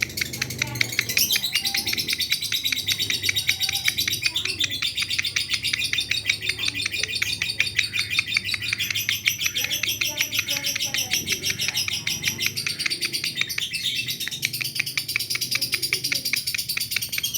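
Lovebird chattering in a long, almost unbroken run of rapid high chirps, many a second.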